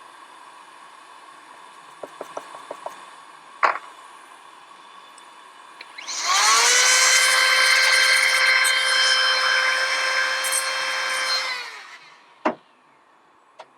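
A hot air rework station's blower spins up with a rising whine and a rush of air, blows steadily for about six seconds, then winds down. A few light clicks come before it.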